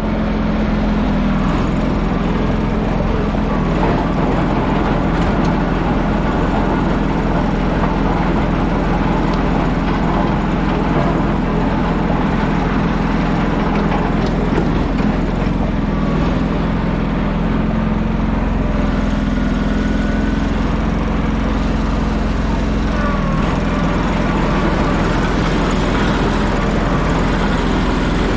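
An engine running steadily at a constant speed, a continuous low drone with no changes in pitch.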